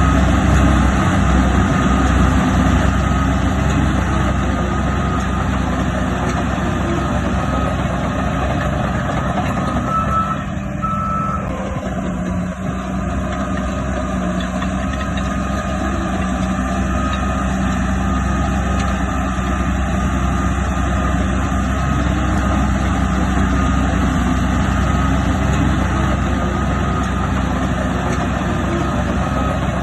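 Heavy diesel earthmoving machine running, with its reversing alarm beeping over and over.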